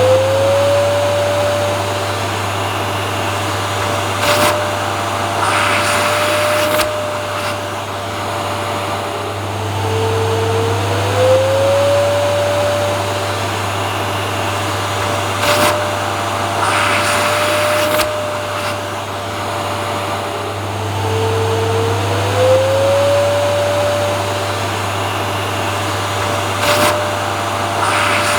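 Vacuum cleaner running without a break: a steady low hum under a motor whine that rises in pitch and then holds, with short rushes of air a few seconds after each rise. The pattern repeats about every eleven seconds, as a looped recording.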